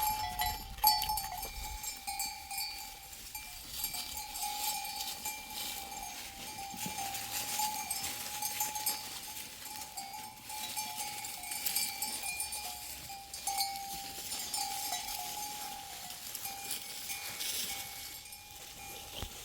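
Livestock bells on a flock of sheep and goats, clinking and ringing over and over without a break.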